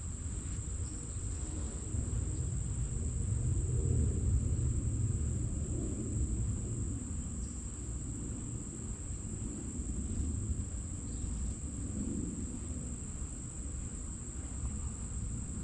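Steady high-pitched chorus of insects, unbroken throughout, over a low rumble that swells a few seconds in and then eases.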